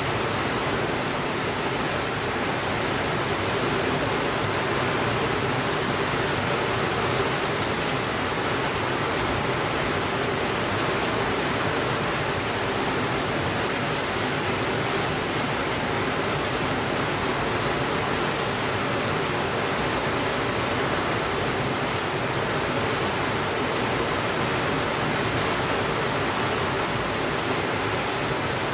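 Steady rainfall, an even hiss with no change in level.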